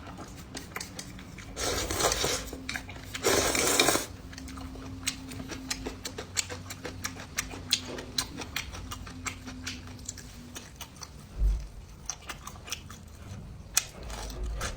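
Eating sounds: utensils clicking and tapping against dishes, with chewing, and two short hissing bursts of noise about two and three and a half seconds in.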